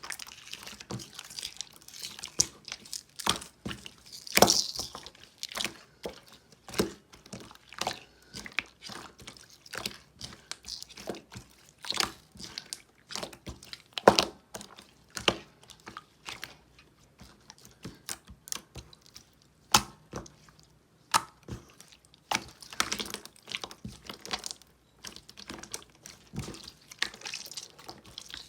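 Clear glitter slime being squished and stretched by hand, giving a run of irregular wet pops and clicks.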